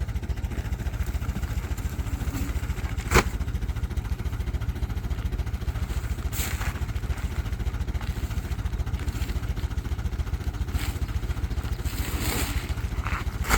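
Small engine running steadily with a fast, even low putter, and a sharp click about three seconds in.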